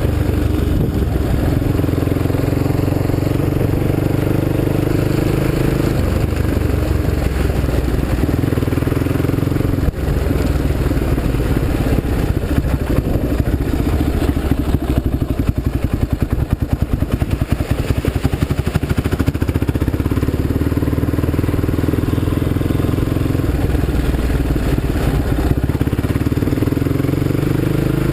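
Polaris Predator quad bike engine running under way, revs shifting a few seconds in; through the middle it drops to lower revs with a quick, even pulsing beat, then picks up again near the end.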